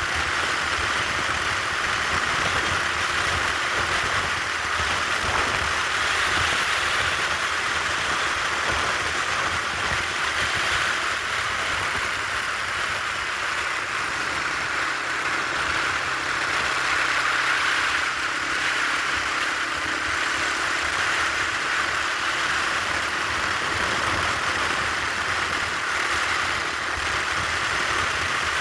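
Yamaha TW200's single-cylinder engine running steadily under a continuous rushing noise, heard while riding.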